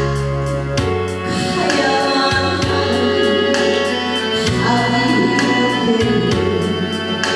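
Music: a voice singing over a full backing track with a steady bass line.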